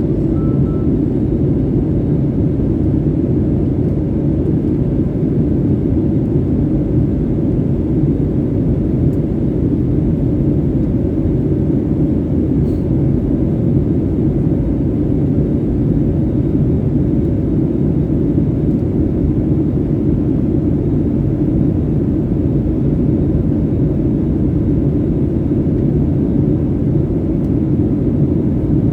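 Steady cabin noise of an Airbus A320 in flight: the even rumble of the engines and the air rushing past the fuselage, heard from inside the cabin.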